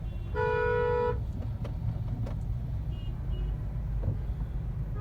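A vehicle horn honks once, a single steady blast of under a second, shortly after the start, over the steady low rumble of road traffic.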